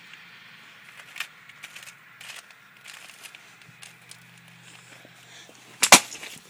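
Scattered crinkles and clicks of a plastic soda bottle being handled, then near the end a single sharp, loud pop as the cap of the shaken, pressurised bottle blows off.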